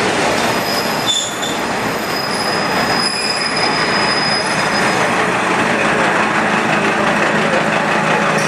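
KiHa 40 series diesel railcar pulling into a station: steady rolling noise, with high-pitched wheel squeal from about a second in until about halfway through.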